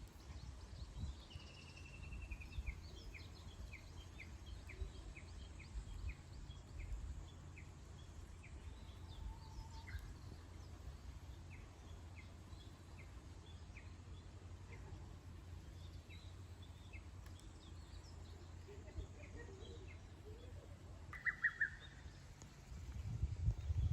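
Wild birds chirping: a run of short high notes, about two a second, for the first nine seconds or so, then scattered faint calls and a louder call about 21 seconds in, over a steady low rumble.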